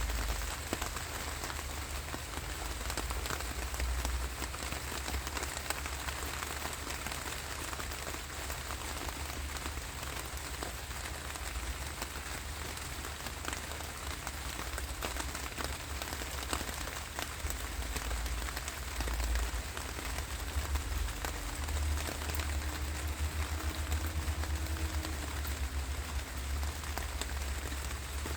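Steady rainfall, with many individual drops pattering through a continuous hiss and a low rumble underneath that grows stronger about two-thirds of the way in.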